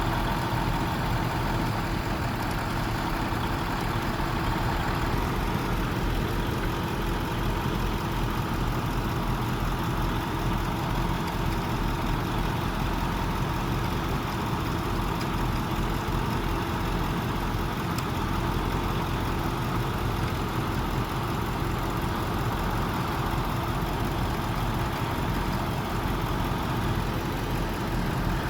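Truck engine idling steadily, an even hum that does not change.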